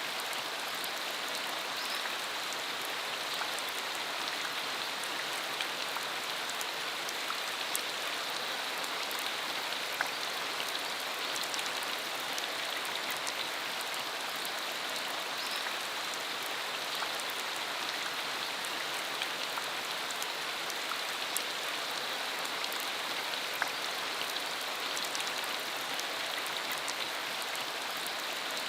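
Steady rain falling, an even hiss with scattered sharper raindrop ticks.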